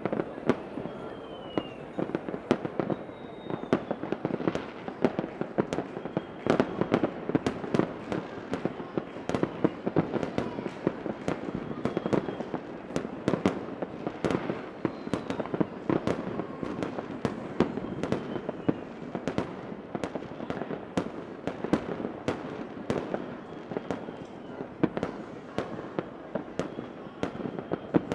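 Fireworks sound effect: a continuous run of sharp bangs and crackles, several a second, with now and then a faint short falling whistle of a rocket.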